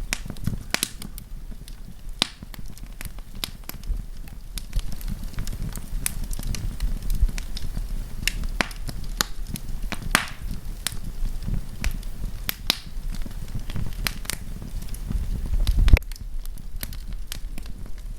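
Wood campfire burning, crackling with frequent irregular sharp pops over a steady low rumble. The rumble swells and then cuts off abruptly near the end.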